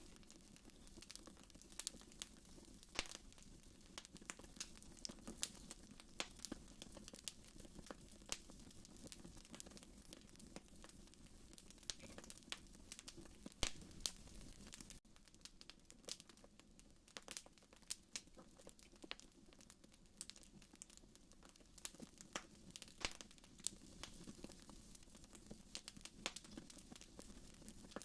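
Wood fire in a fireplace crackling quietly, with irregular sharp pops and snaps.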